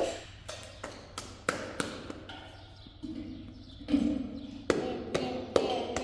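An irregular series of sharp taps and knocks, about a dozen, the first the loudest, with a brief low hum about four seconds in.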